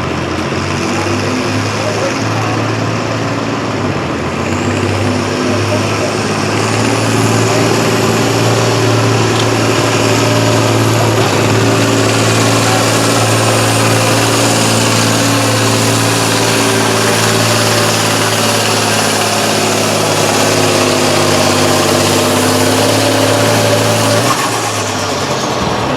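Competition pulling tractor's engine running at full power under load as it pulls the weight-transfer sled down the track, a steady, loud note with slight shifts in pitch. A faint high whistle comes in about halfway, and the engine drops off shortly before the end.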